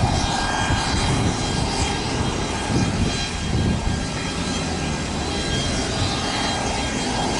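Airliner engines running steadily with a constant high whine over a broad rush of noise.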